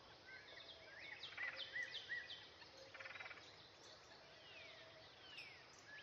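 Faint birds calling outdoors: short repeated arched chirps, two brief buzzy trills and a couple of downward-sliding whistles over a quiet background hiss.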